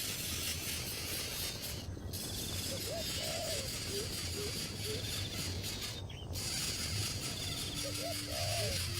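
Low hooting bird calls in short rising-and-falling notes, coming in several groups, with a faint repeated insect-like rasp behind them.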